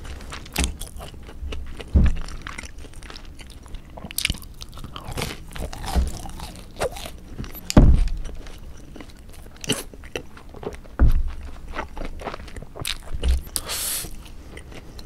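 Close-miked chewing and crunching of a deep-fried battered squid ring, with sharp crunches and clicks every second or two.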